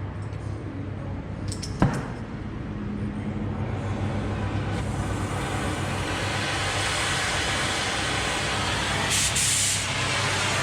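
Oxy-fuel cutting torch working through thick steel plate: a sharp pop about two seconds in, then a gas hiss that builds and brightens, with a louder blast of hiss near the end. A steady low hum runs underneath.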